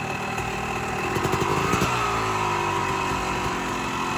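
Motorcycle engine running, revved up about a second in, then its pitch falls away and it settles to a lower, steady note.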